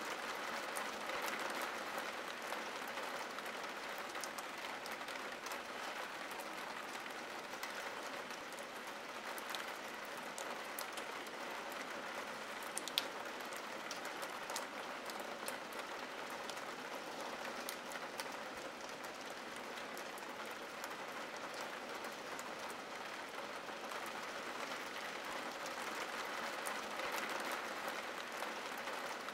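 Steady rain on window glass: an even hiss with scattered faint drop ticks, and one sharper tick about halfway through.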